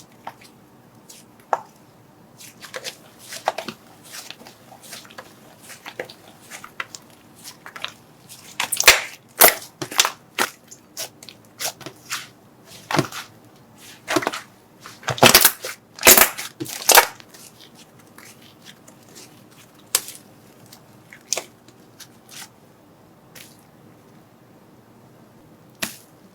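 Slime being squeezed and pressed by hand, giving irregular sharp crackling pops and crunches that come thickest and loudest in two clusters about a third and two-thirds of the way through, then thin out to a few isolated pops.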